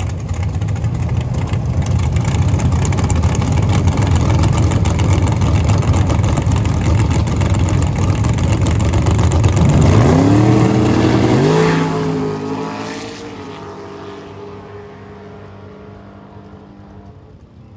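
Drag race car engines running loud and rough, then one engine note rising in pitch as the car accelerates hard, fading steadily as it pulls away down the track.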